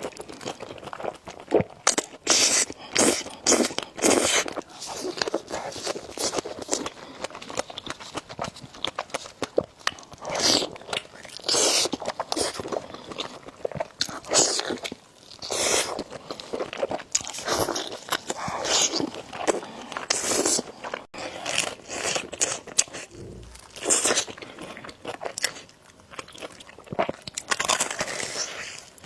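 Close-miked eating of noodles with eggs: chewing and biting with many irregular short wet smacks and clicks, and louder bursts every second or two.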